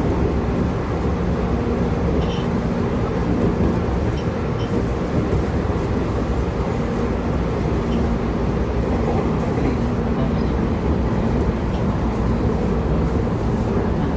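Running sound of a JR Kyushu 811 series electric train, motor car MoHa 811-1: a steady rumble of wheels on rail and traction-motor hum, holding an even speed with no rise or fall in pitch.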